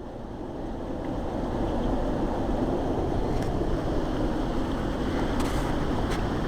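Strong wind gusting across the microphone: a steady rumbling rush that swells over the first couple of seconds and then holds.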